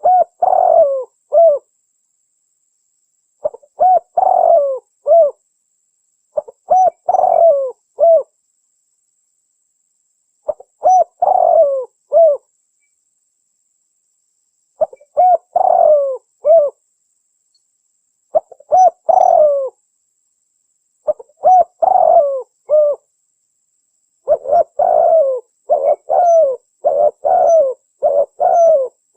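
Spotted dove (tekukur) cooing, a lure call: phrases of a few coos repeat about every three to four seconds with dead silence between them, then follow each other closely over the last five seconds.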